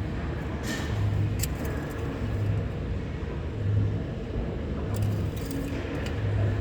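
Toyota 1NZ 1.5-litre four-cylinder petrol engine running steadily on test, a low hum that swells and fades in a slow regular beat about every second and a half.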